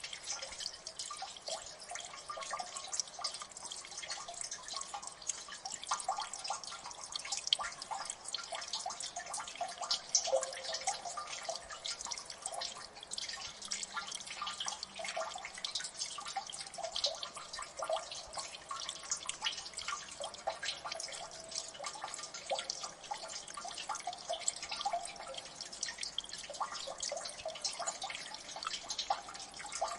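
Water dripping in a gully: many drops falling in quick, irregular succession, each a short pitched plink, some higher and some lower, keeping up an unbroken patter.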